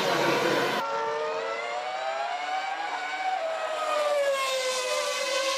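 A 1998 Formula One car's V10 engine running at high revs, its pitch climbing steadily and then falling away. About a second in, the sound changes abruptly from a dense, busy mix to this single clear engine note.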